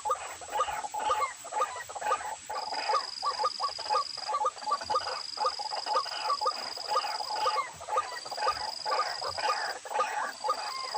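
White-breasted waterhens (ruak-ruak) calling: a dense, fast run of short repeated notes, several a second, with a high steady whine that stops and starts behind them.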